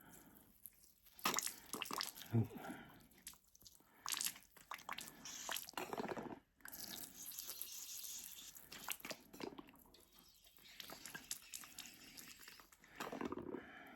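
Hand spray bottle misting water over moss and substrate, in repeated short hissing bursts with a longer spell of spray a little past the middle, with some crackling of the moss and soil being handled.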